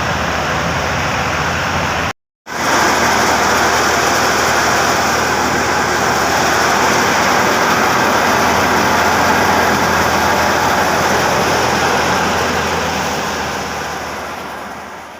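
Tractor-driven wheat thresher running: a steady low engine hum under a dense, even rush of machine noise. The sound cuts out for a moment about two seconds in, resumes, and fades away at the end.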